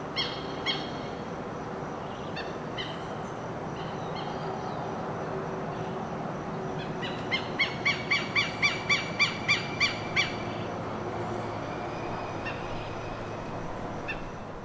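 Open-country ambience with a steady background rush and birds calling: a few short chirps near the start, then a bird repeating a sharp call about four times a second for some three seconds past the middle.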